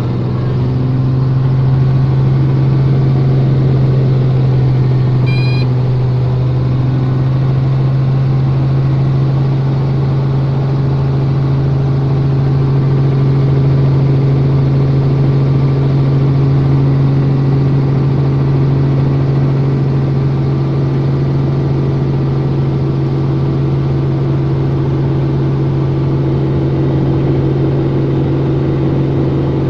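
Helicopter in flight: a loud, steady drone of rotor and engine with a low hum that holds level throughout.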